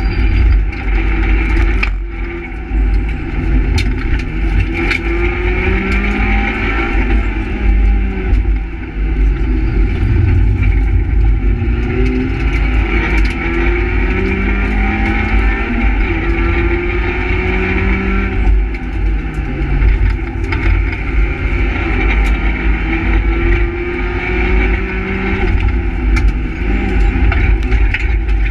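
Renault Twingo R1 rally car's engine heard from inside the cabin, driven hard on a stage: the revs climb again and again and drop back at each gear change, over loud road and tyre noise.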